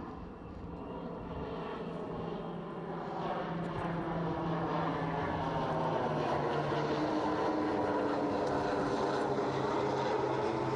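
Twin PT6A-67AF turboprops of a Conair S-2FT Turbo Firecat in a low pass, growing louder over the first few seconds and then holding steady. The low propeller hum drops slightly in pitch about six seconds in as the aircraft passes.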